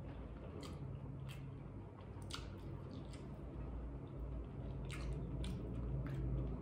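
A person chewing mouthfuls of sautéed broccoli, with short sharp mouth clicks scattered through it, over a low steady hum.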